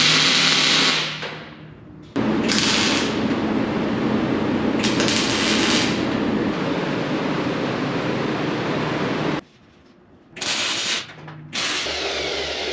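Metal fabrication tool noise: a harsh, hissing crackle in several bursts that start and stop abruptly, the longest lasting about seven seconds.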